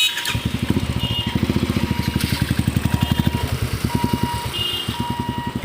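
A vehicle engine running close by with a rapid, even low pulse, and short high beeps about once a second.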